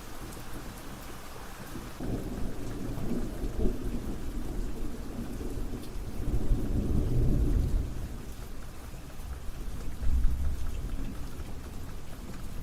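Steady rain with rolling thunder: low rumbles swell about two seconds in, build to a peak in the middle, and rise again about ten seconds in.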